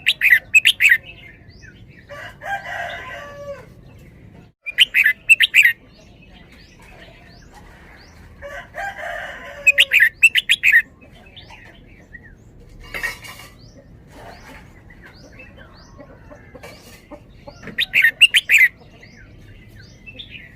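Red-whiskered bulbul singing: four loud, short phrases of rapid whistled notes spaced several seconds apart, with softer warbling phrases in between.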